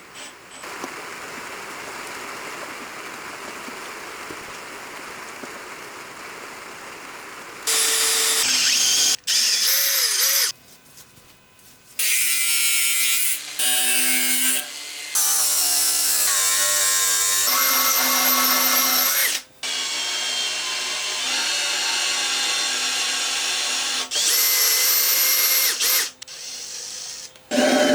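Electric drill running in repeated bursts of a few seconds, its motor pitch stepping up and down with the trigger. A quieter steady hiss comes first, for the first several seconds.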